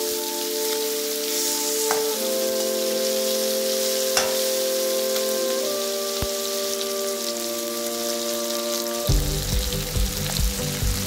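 Fish steaks sizzling as they shallow-fry in oil in a kadai, under background music of held chords that change every few seconds. About nine seconds in, a low beat enters the music.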